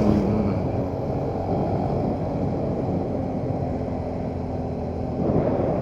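Motorcycle engine running steadily while riding along a road, with its engine tone and road noise heard at the on-bike microphone.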